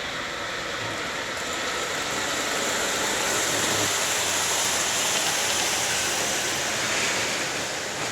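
A train passing by: a steady rush of wheel and rail noise that grows louder towards the middle and eases off near the end.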